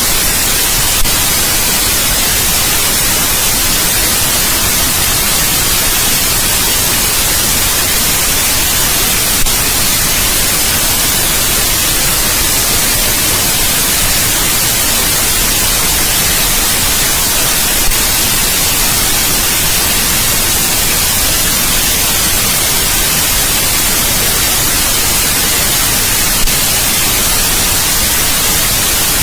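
Steady white noise, an even hiss strongest in the highs, with a faint click about every eight or nine seconds.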